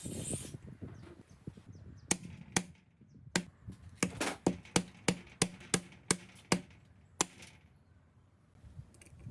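A series of about a dozen sharp knocks or taps, irregular at first and then coming quickly, about two a second, near the middle.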